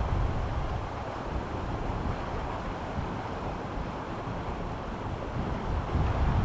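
Steady rush of a mountain stream's flowing water, with gusts of wind rumbling on the microphone, stronger at the start and again near the end.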